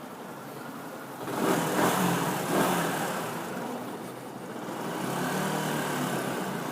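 Yamaha YZF-R125's 125 cc single-cylinder four-stroke engine with its stock exhaust, loud, revving up hard about a second in, easing off around four seconds, then building again.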